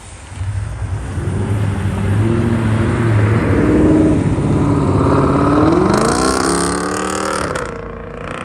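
Car engine accelerating hard as it leaves, its pitch climbing steadily for a few seconds before it falls away near the end.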